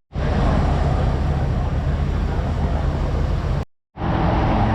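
A vehicle engine running steadily with road and wind noise, as when travelling at speed. It breaks off for a moment of silence about three and a half seconds in, then resumes much the same.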